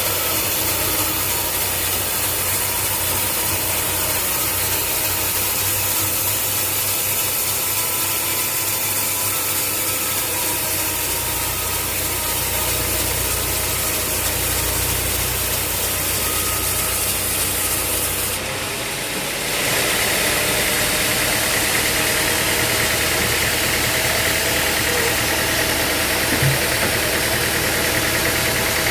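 Sawmill machinery running steadily with a low engine hum. About two-thirds of the way through, the sound dips briefly, then goes on with more hiss.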